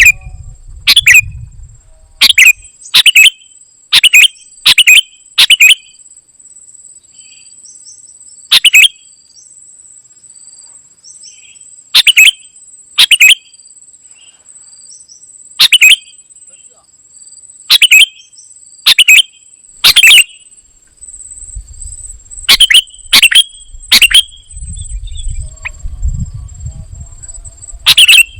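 Kutilang emas bulbul calling: loud, short, sharp chirps repeated in irregular clusters, with gaps of a few seconds, over a steady high-pitched insect-like whine.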